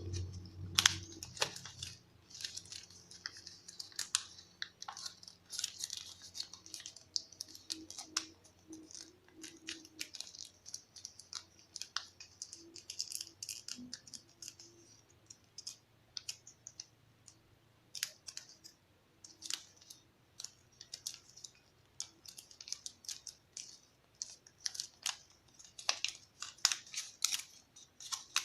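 A sheet of origami paper crinkling and rustling as it is folded and creased by hand, in a long run of small irregular crackles and clicks.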